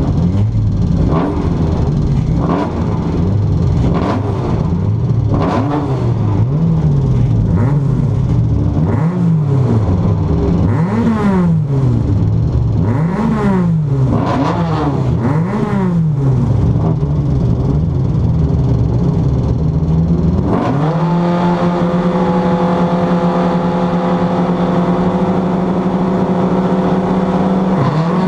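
Honda folkrace car's engine, heard from inside the stripped cabin, revved up and down over and over while standing still, about one rise and fall every second or two. About twenty seconds in the revs jump up and are held steady, ready for the start.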